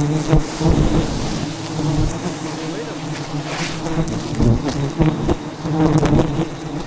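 A swarm of giant honey bees (Apis dorsata) buzzing in a dense, steady hum, with a few short knocks.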